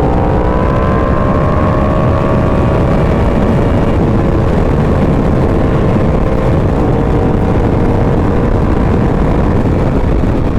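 A 2018 Yamaha R1's engine, fitted with a Competition Werkes exhaust, running at a steady cruising speed, its note rising slightly in the first couple of seconds and then holding. Heavy wind rumble covers it throughout.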